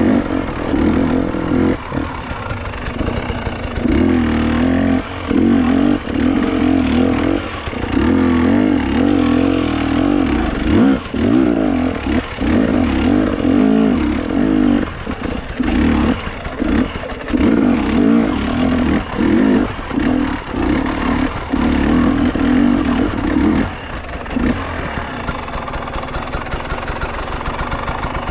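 Two-stroke enduro motorcycle engine being ridden, revving up and down with many short throttle cuts. About three-quarters of the way through it settles into a steadier, lower, quieter running note.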